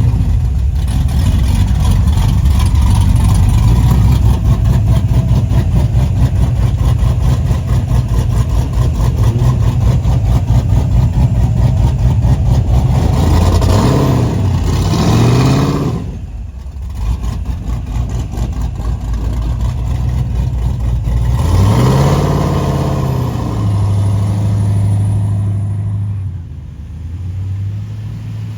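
Car engine running loudly, revved up and down about halfway through and again a few seconds later, then settling to a steady idle near the end.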